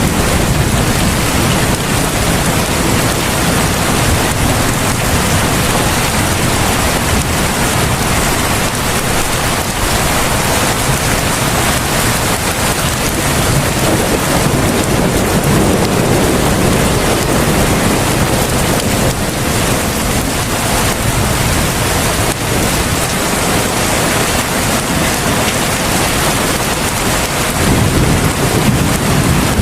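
Heavy rain pouring steadily, a dense unbroken hiss, with a low rumble in the bass that swells and fades a few times.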